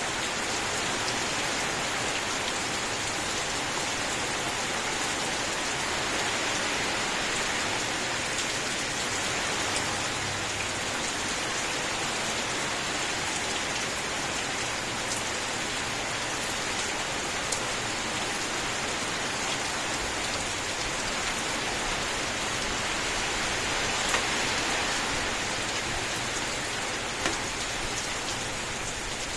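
Steady rainfall, an even hiss of many drops, with a few single drops landing as sharp ticks now and then.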